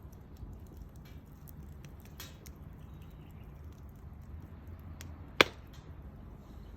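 Wood fire burning, with scattered small crackles and ticks and one sharp, loud pop about five seconds in.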